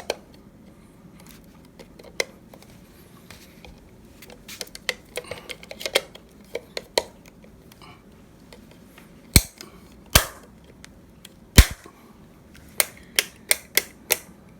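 Plastic cover plate of a three-gang wall light switch being fitted: small scattered clicks, then three loud snaps over about two seconds as it clips into place. Near the end, a fast run of sharp clicks, about three a second, as the new rocker switches are flicked on and off to test them.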